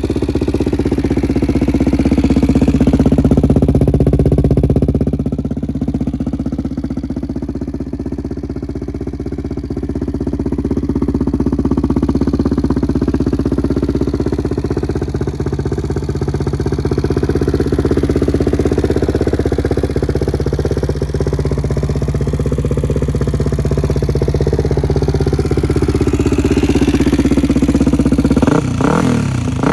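Suzuki DR-Z400's single-cylinder four-stroke engine running at a steady idle through an MRD full aftermarket exhaust, its pitch wandering slightly. Near the end the note breaks into quick rises and falls in pitch.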